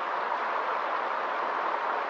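River water rushing in a steady, even hiss with no splashes or breaks.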